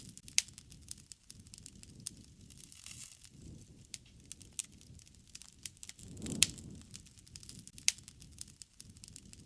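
Wood campfire crackling: irregular sharp pops and snaps over a low flutter of flames, with a louder pop and a swell of flame noise about six and a half seconds in.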